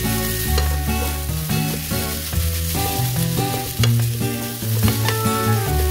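Spam fried rice sizzling in a frying pan as it is stirred, under background music with a steady bass line.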